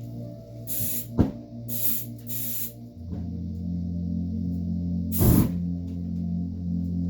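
Aerosol can of electrical contact cleaner sprayed in short hissing bursts, four times, onto a red-hot burnished pot to flame-reduce it, with a sharp knock about a second in. A steady low hum runs underneath.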